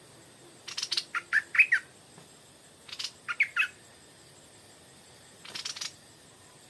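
Stripe-throated bulbul calling in three short bouts. Harsh rasping chatter is mixed with quick whistled notes in the first two bouts, and the last bout, near the end, is only the harsh chatter.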